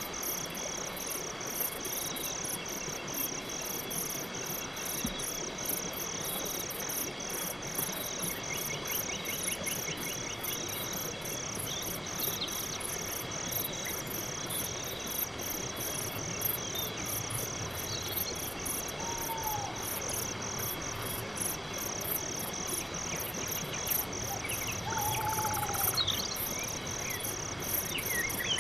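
Night insects chirping in an even pulsing rhythm, about two chirps a second, over a fainter, higher continuous trill. A couple of brief falling calls stand out partway through.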